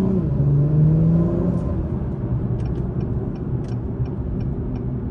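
2021 Acura TLX Type S's turbocharged 3.0-litre V6 accelerating in sport mode, heard from inside the cabin: the engine note climbs, drops at an upshift just after the start, climbs again, then settles into a steady engine and road hum. From about two and a half seconds in, a regular light ticking, about three ticks a second.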